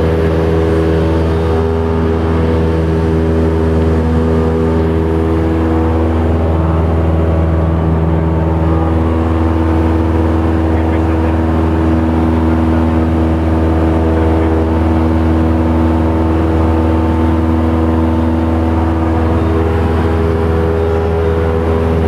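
Light aircraft's piston engine and propeller running at a steady, loud drone.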